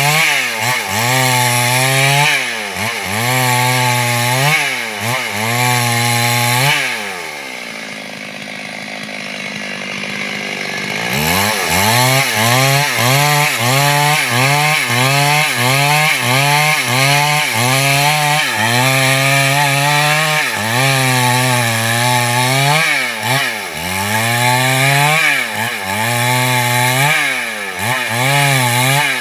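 Chainsaw running, its engine speed rising and falling over and over as it works through wood. About a quarter of the way in it settles to a lower, quieter steady speed for a few seconds, then starts revving up and down again.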